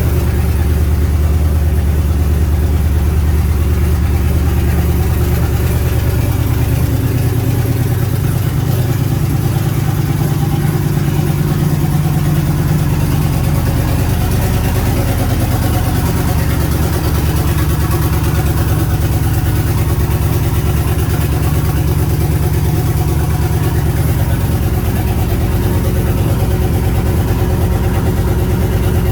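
Twin-turbo LS V8 in a 1988 Pontiac Trans Am running at a steady idle, its low engine note shifting only slightly.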